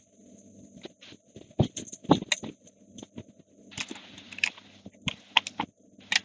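Irregular metallic clicks, taps and rattles of a chainsaw's chain, bar and housing parts being handled and fitted together by hand.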